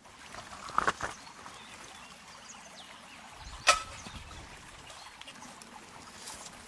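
Water trickling and flowing steadily, with two short sharp sounds, about a second in and near the middle.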